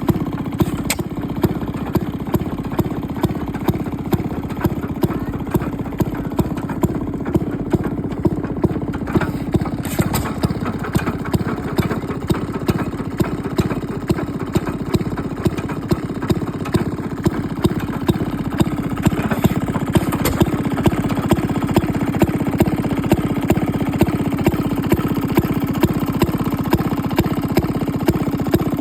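An engine running slowly and steadily, a sharp beat about one and a half times a second over a continuous low running sound.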